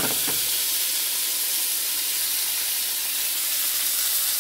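Pounded garlic, ginger, onion, tomato and scallion whites sizzling in hot olive oil in a stainless steel wok, a steady hiss as the aromatics start to sauté. Two brief knocks right at the start.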